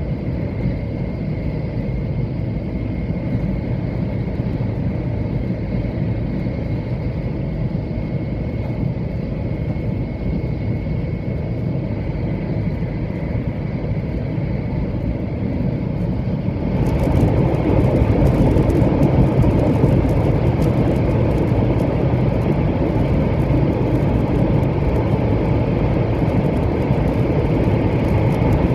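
A 700 series Shinkansen running at speed, heard from inside the passenger cabin as a steady rumble with a faint high whine. About two-thirds of the way in it turns suddenly louder and harsher, and it stays so until near the end.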